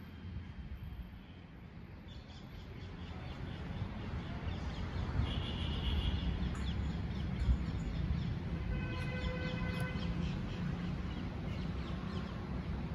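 Birds chirping in the garden over a steady low rumble that grows louder a few seconds in.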